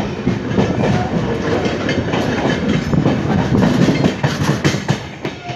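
Moving express passenger coach running over the track, its wheels and bogies clattering with many quick knocks, heard loud at an open coach door.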